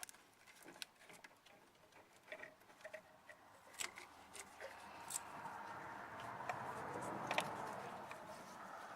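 Faint, scattered clicks and small knocks of hand work on an ignition coil and its plug-in electrical connector. A soft rushing noise swells from about halfway through and fades near the end.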